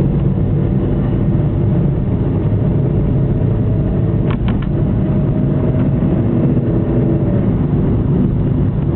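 Car engine and road noise heard from inside the cabin while driving, a steady low rumble. There are three quick clicks about four and a half seconds in.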